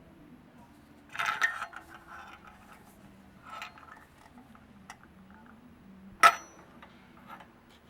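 Scattered metallic clinks and clatters of tools or metal parts being handled, a cluster about a second in and one sharp clink about six seconds in, over a low steady background hum.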